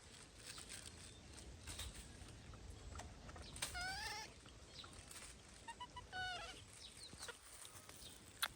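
Baby monkey crying twice: two short, wavering, high-pitched cries a couple of seconds apart, over faint small clicks and rustles.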